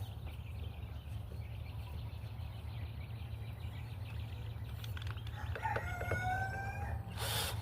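A rooster crows once, for about a second and a half, over a steady low hum. Just before the end, a cordless drill starts up loudly, driving a screw into the hive's wood without a pilot hole.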